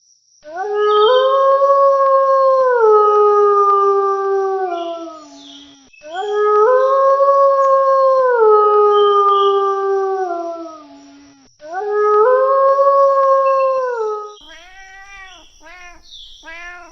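Wolf howling: three long howls, each holding a steady note and then dropping in steps toward the end. Near the end, a quick run of short, arching calls from another animal begins.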